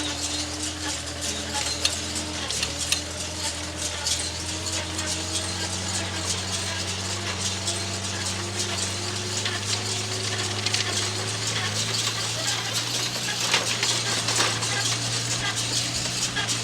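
Diesel farm machinery running steadily, its engine hum overlaid by a constant clatter of small clicks and rattles.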